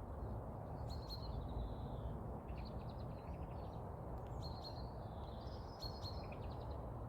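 Small garden songbirds singing: several short trilled and chirping phrases, high in pitch, over a steady low rumble.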